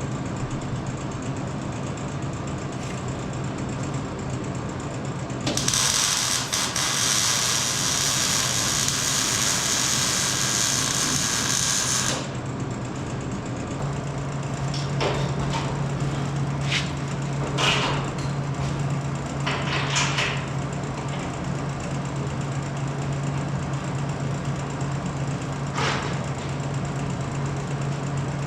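Workshop sounds under a steady low hum: a loud, even hiss lasting about six seconds, then scattered knocks and clanks of tools and parts being handled.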